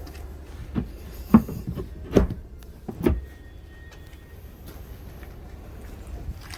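Four thuds in the first three seconds, over a steady low hum.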